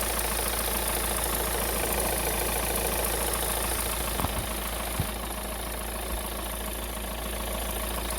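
VW 1.9 TDI four-cylinder diesel idling steadily, with a strange noise from the accessory drive belt. The cause is a worn aluminium pulley whose grooves have worn down, so the belt slips on it and the tensioner shakes. A few faint knocks sound about four, five and six seconds in.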